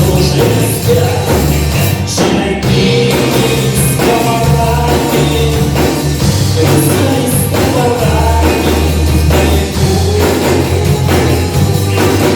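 Live rock band playing a song, with a stepping bass line and drums.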